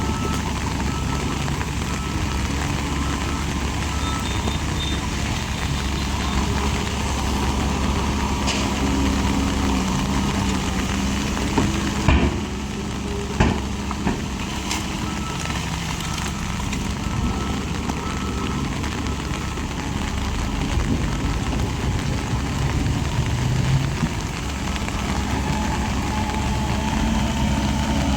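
Heavy diesel engine of construction machinery running steadily, with two sharp knocks near the middle.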